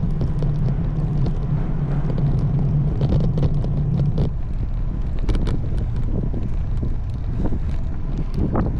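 Wind rushing over the microphone of a camera on a moving road bike, with a steady low hum for about the first four seconds and scattered light ticks.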